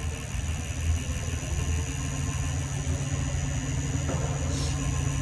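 Lexus GS400's 4.0-litre V8 running steadily at idle, a low even rumble, through an exhaust with no catalytic converters and a single small muffler.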